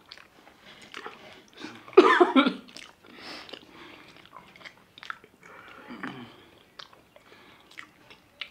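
Two people chewing and swallowing chocolate fast, with wet mouth noises and lip smacks. A short, loud vocal grunt or cough comes about two seconds in.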